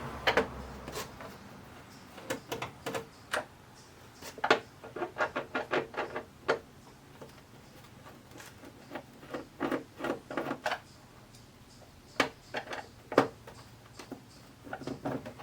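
Screws being taken out of an LCD TV's back cover: irregular clicks and taps of the screwdriver, the screws and the plastic panel, some coming in quick runs.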